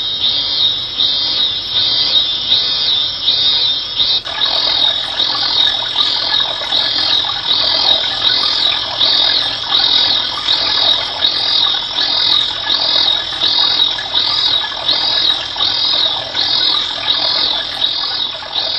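A natural-sound auditory stimulus used to evoke an auditory steady-state response. It is a high chirping sound pulsing about twice a second, and a fuller, lower layer joins about four seconds in.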